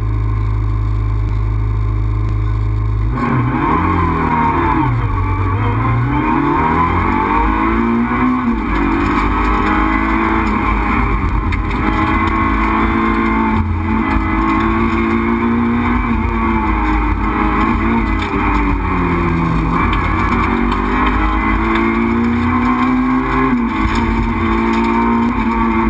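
Renault Clio 2 RS Group A rally car's four-cylinder engine, heard from inside the cabin. For the first three seconds it is held at steady revs, then it pulls away hard through the gears, the pitch climbing and dropping at each shift.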